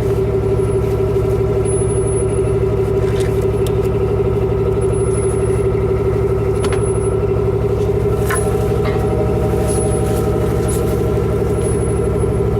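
Vehicle engine running at a steady speed: a constant drone with a strong hum, with a few faint clicks and squeaks over it.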